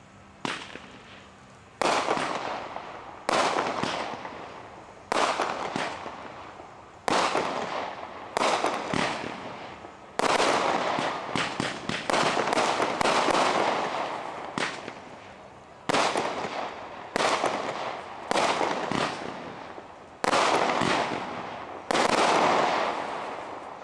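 Consumer aerial firework cake firing shot after shot, about a dozen in all, one every second or two. Each shot is a sudden pop followed by a dense crackling fizz of gold sparkling stars that fades before the next.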